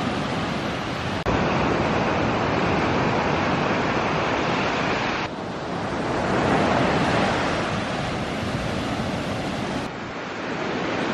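Ocean surf washing on the beach, with wind blowing across the microphone. The noise shifts abruptly a little over a second in, again about five seconds in, and once more near the end.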